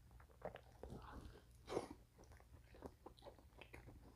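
Close-miked chewing of a mushroom Swiss cheeseburger: faint, irregular wet mouth clicks and smacks, with one louder, longer squelch a little under two seconds in.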